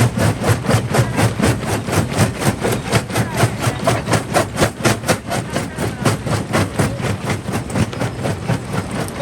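Primary jaw crusher running, with an even, rhythmic pulse of about three to four beats a second.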